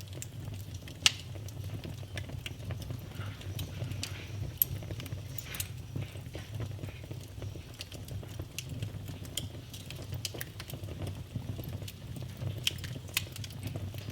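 Wood fire burning in a fireplace: a steady low rumble of the flames with irregular crackles and pops, one sharp pop about a second in.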